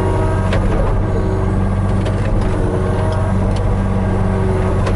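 Hitachi 35U mini excavator's diesel engine running steadily under work, with a few light knocks about half a second, two seconds and three and a half seconds in.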